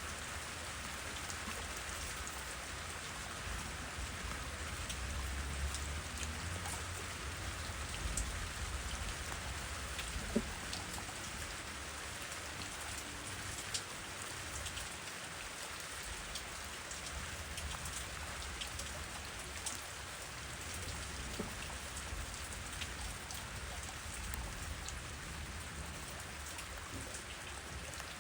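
Steady rain falling, an even hiss with scattered individual drops landing close by, over a low rumble.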